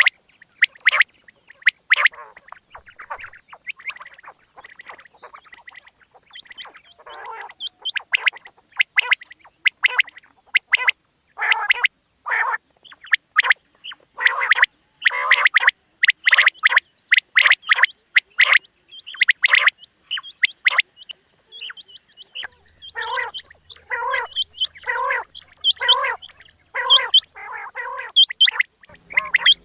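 Quail calling over and over: a quick series of short, sharp calls, at times two or more a second, with a run of lower, evenly spaced calls about once a second in the last third.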